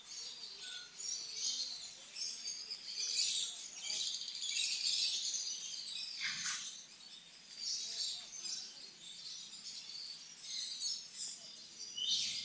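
Birds chirping and twittering continuously, a dense, high-pitched chatter of many short calls.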